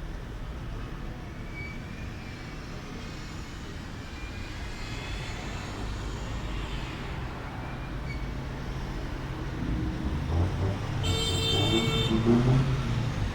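Low rumble of outdoor road traffic that grows louder over the last few seconds as a vehicle comes near, with a few faint short high whistles over it.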